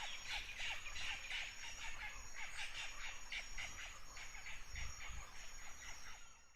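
Wetland night ambience: many frogs calling in short, quick notes over a steady high insect trill. The sound cuts off near the end.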